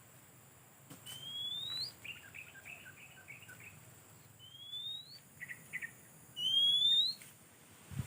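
Birds calling: a thin, rising whistle heard three times, the last one loudest, with short bursts of chattering notes in between.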